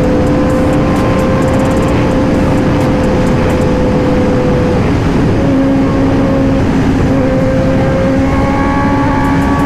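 Kawasaki ZX-10R's inline-four engine running at a steady cruise, its pitch holding nearly level, under heavy wind noise.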